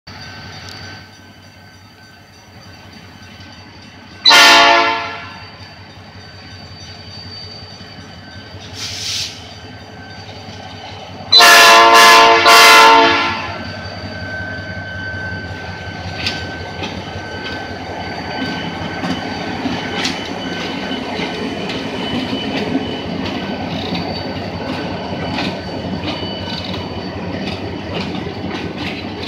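Diesel freight locomotives, an EMD GT-22CW leading an ALCO RSD-16, sound an air horn: one short blast about four seconds in, then a longer blast broken into three parts around eleven to thirteen seconds. The locomotives' engines and wheels then rumble past, growing louder, with the clicking of wheels over the rail joints as the tank cars follow.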